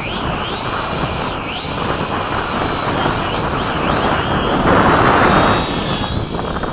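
Whine of a radio-controlled mini B-17's electric motors and propellers. It rises in pitch at the start, then dips and climbs again several times as the throttle changes, over heavy wind noise on the microphone. The noise swells louder about five seconds in.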